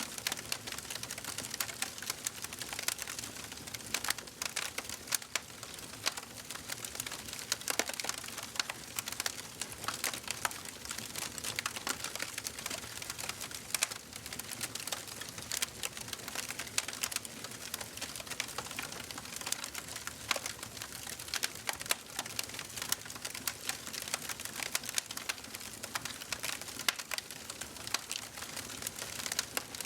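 Wood fire burning in a fireplace, with dense irregular crackles and small pops over a steady hiss of flame.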